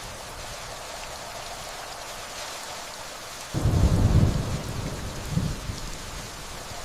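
Steady rainfall hiss. A little past halfway a low thunder rumble comes in suddenly and rolls for about a second, followed by a weaker rumble a moment later.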